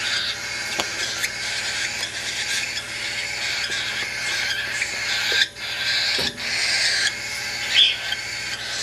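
Baby cockatiel's raspy begging calls during hand-feeding: a harsh, near-continuous chatter broken by short pauses.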